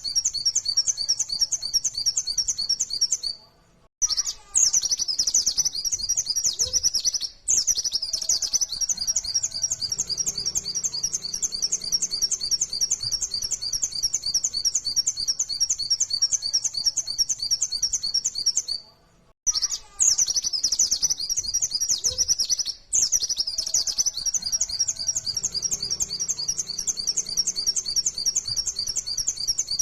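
White-eye (pleci) singing a fast, unbroken run of high chirps in rapid-fire 'nembak' style, the kind used as a lure to set other white-eyes singing. The song stops briefly twice, and the same passage comes round again about every fifteen seconds.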